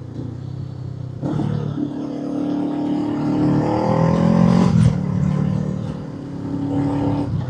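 Honda 500 parallel-twin motorcycle engine with an aftermarket exhaust, accelerating under load. The revs rise steadily, drop at a gear change nearly five seconds in, then settle to a steady cruise.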